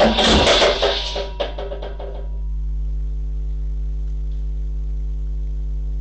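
A flurry of knocks and rattling clatter for about two seconds, then a steady low electrical-sounding hum.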